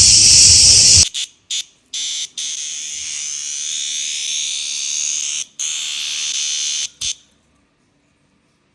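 Mediterranean cicadas buzzing loudly in a high, steady drone. It breaks off about a second in, comes back in two short bursts, then runs for about five seconds with brief gaps before stopping abruptly about seven seconds in.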